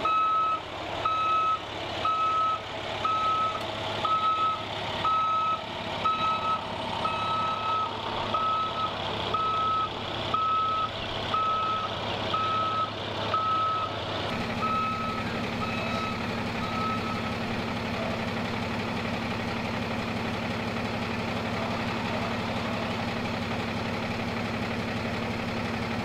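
Large vehicle's reverse warning alarm beeping steadily, a little faster than once a second, as it backs up, stopping about 17 seconds in; its engine keeps idling with a steady hum afterwards.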